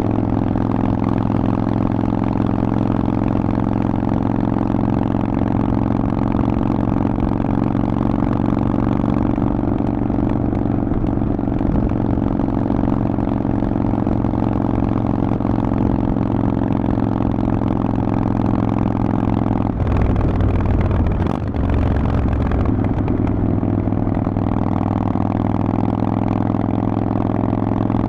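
Harley-Davidson Forty-Eight's air-cooled 1200 cc V-twin running through a Vance & Hines exhaust, holding a steady note while cruising. About twenty seconds in the even note breaks up for a couple of seconds, then settles back to a steady run.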